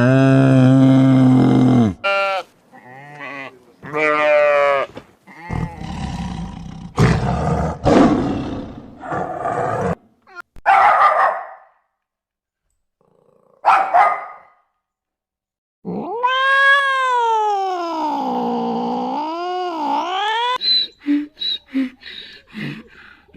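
A series of different animal calls cut one after another: growling and roaring calls, a long call that wavers up and down in pitch, then a run of quick short calls near the end.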